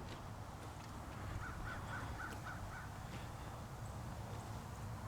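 Faint outdoor background noise with a quick series of about six short bird calls, between about one and a half and three seconds in.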